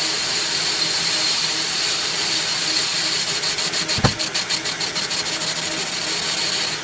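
Metal lathe running while it takes a light, hand-fed skim cut on a worn motor pulley: a steady high hiss over the lathe's hum, one sharp knock about four seconds in, and the cutting sound stops near the end.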